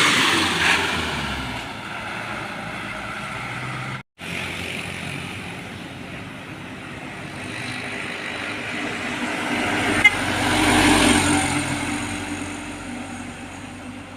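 Heavy trucks passing on a road: one fades away at the start, and after a brief break another approaches and passes, loudest about eleven seconds in. A sharp click sounds just before that pass-by peaks.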